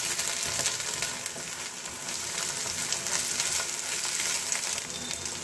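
Chopped onions and ginger-garlic paste sizzling steadily in hot oil in a nonstick frying pan, stirred with a silicone spatula. The paste is being fried to cook off its raw smell.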